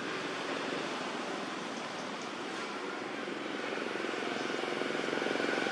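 An engine running steadily, slowly growing louder toward the end.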